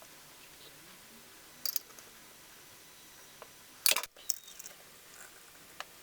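Scattered sharp clicks over faint background hiss: a short pair about one and a half seconds in, and a louder cluster about four seconds in.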